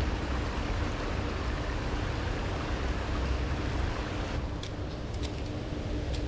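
Steady outdoor rumble of wind on the microphone and running river water, with a faint steady hum under it and a few light clicks near the end.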